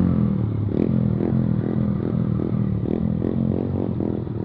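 Yamaha MT-15's 155 cc single-cylinder engine running loudly through a modified aftermarket exhaust with its dB killer removed, while the bike is being ridden.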